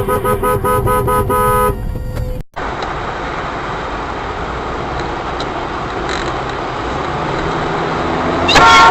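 A car horn honking in a rapid string of short beeps, about five a second, stopping after under two seconds. After a brief dropout comes steady road and engine noise heard from inside a moving car. A loud pitched blast begins near the end.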